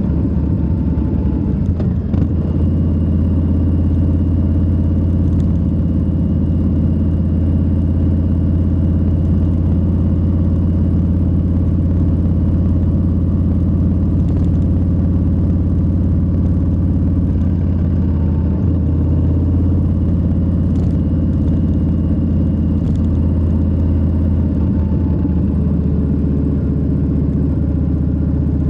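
Harley-Davidson Low Rider S's Milwaukee-Eight 117 V-twin engine and exhaust running at a steady cruising speed, a low engine note that holds one pitch with no gear changes or revving.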